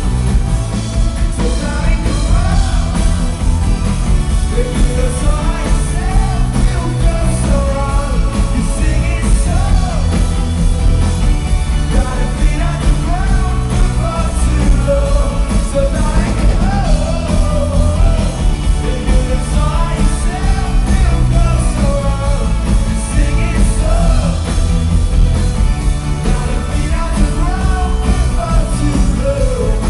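A rock band playing live: loud drums, bass and guitars with a sung vocal over them, as heard through the camera's microphone in a concert hall.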